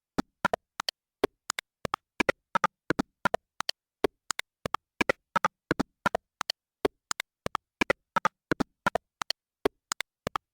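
A rapid, uneven run of short electronic clicks and blips, about three or four a second, each at a different pitch: the sparse glitch intro of an electronic music track, before its drum-machine beat starts.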